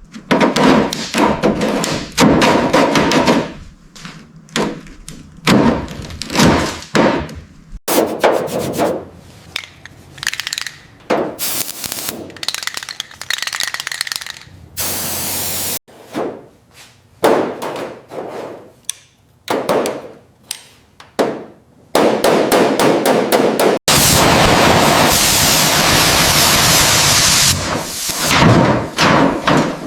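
Workshop tool sounds: a run of knocks, taps and scraping, with stretches of steady hiss. The sound changes abruptly about every eight seconds.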